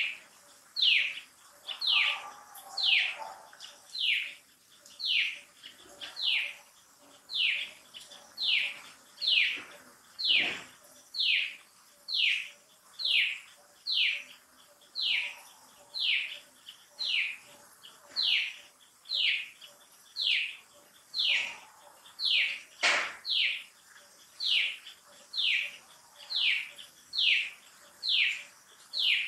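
A bird calling with a short, high, falling whistled note, repeated steadily about once a second. Two brief knocks come about a third and three quarters of the way in.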